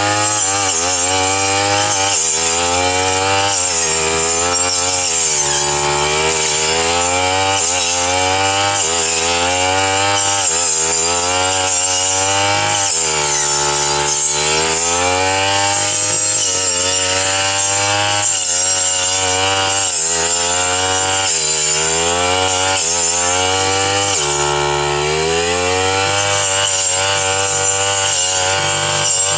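Brush cutter engine running at high revs while its blade cuts through thick scrub. The engine pitch keeps dropping as the blade bites into the brush and rising again as it clears, every second or two.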